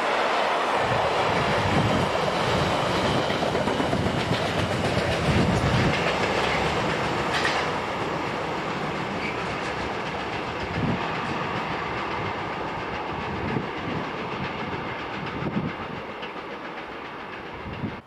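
Container freight train's wagons rolling past with wheels clattering, loud at first and then gradually fading away as the train recedes, before cutting off abruptly at the end.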